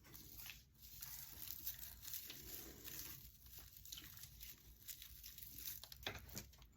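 Faint rustling and crinkling of dry raffia strands being handled and pressed down.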